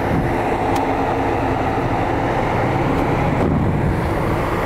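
Toyota MR2's turbocharged 2-litre twin-cam 16-valve engine idling steadily, with wind rumbling on the microphone.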